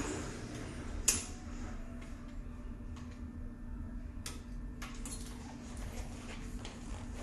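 A few sharp clicks or knocks, the loudest about a second in, over a steady low hum.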